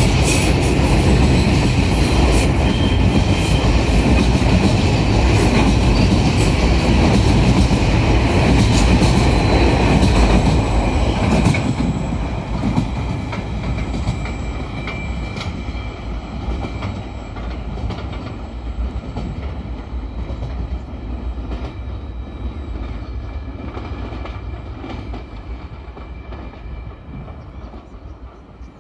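Empty log wagons of a freight train rolling past on the rails, their wheels clattering over the track with a thin high squeal. About twelve seconds in the last wagon passes, and the rumble fades steadily as the train draws away.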